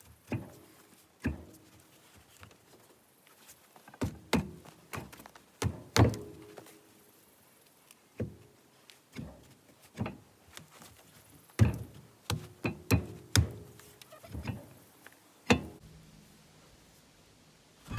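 Irregular heavy knocks and bangs on metal, some leaving a brief ringing, as a big, heavy wheel stuck on a truck box's hub is worked loose.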